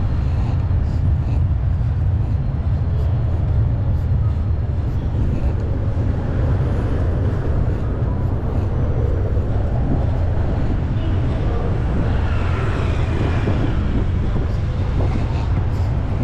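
Wind buffeting the microphone of a moving bicycle, a steady low rumble, over street traffic noise.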